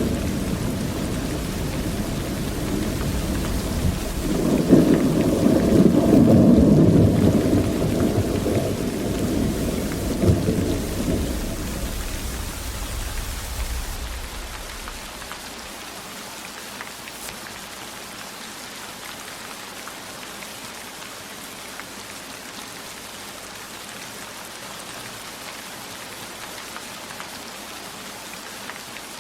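Steady rain falling, with a long roll of thunder that swells about five seconds in and rumbles away to nothing by about halfway through, leaving only the rain.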